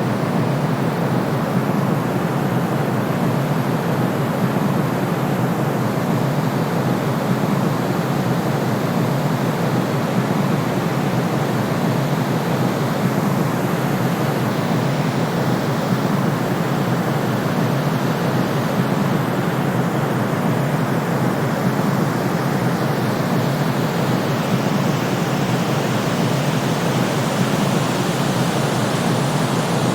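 Steady synthetic white-noise soundtrack of the soothing kind played for colicky babies, a deep even hiss, heavier in the lows than the highs, unchanging throughout.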